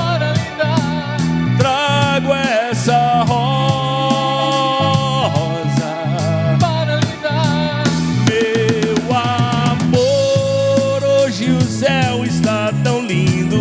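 Live band music at a steady groove: drum kit keeping the beat under a pulsing bass line, with a wavering lead melody over the top.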